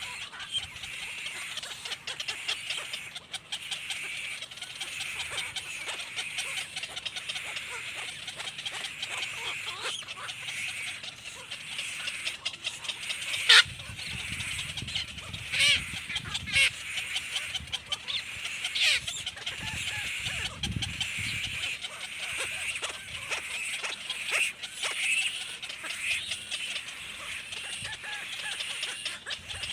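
Baby bird chirping continuously in rapid, high-pitched calls, with a few louder, sharper calls about halfway through.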